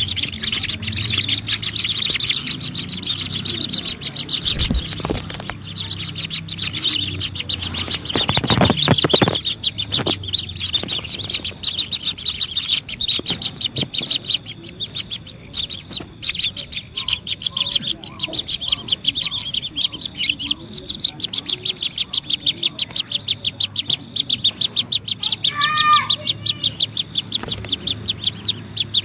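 Small birds chirping in a fast, steady run of short high notes, several a second. A low rustling thump comes about eight to nine seconds in, and a short falling call sounds near the end.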